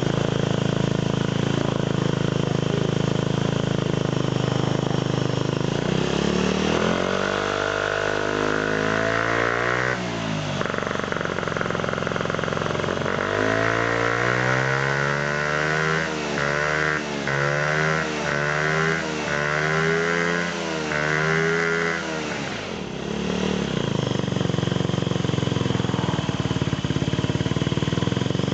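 Honda Zoomer scooter's 50 cc four-stroke single-cylinder engine idling, then revved up once for about three seconds. After a short pause it is blipped about eight times in quick succession, then it settles back to a steady idle.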